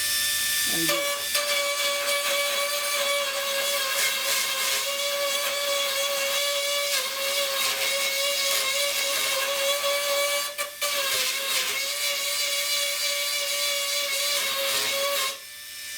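High-speed rotary grinding tool fitted with a pointed bit, running steadily with a constant whine while grinding rust off the sheet metal of a door corner to get down to clean metal for welding. It dips for a moment about two-thirds of the way through and stops shortly before the end.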